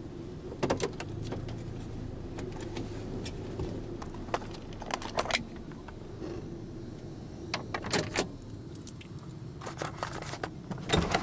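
Scattered sharp clicks and rattles over the steady low hum of a vehicle.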